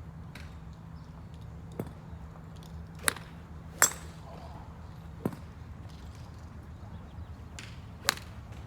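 Golf clubs striking balls at a driving range: a series of sharp, crisp cracks of club-face contact, five clear hits spread unevenly, the loudest about four seconds in with a short ringing ping.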